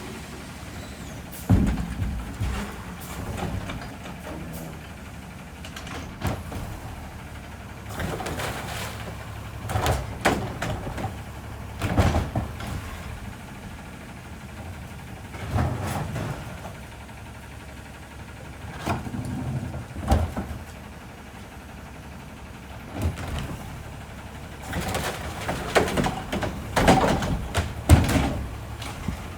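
Garbage truck engine running steadily, with a series of metal bangs and clatters every few seconds, loudest near the end.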